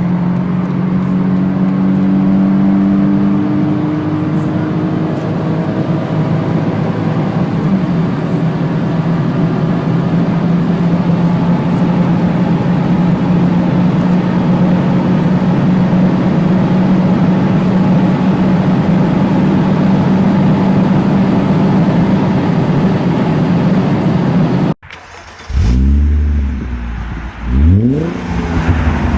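Mercedes-Benz V6 engine running at steady, fairly high revs for most of the stretch, its pitch holding nearly level. After an abrupt cut about 25 seconds in, a V6 is revved in quick blips, the pitch rising and falling sharply with each one.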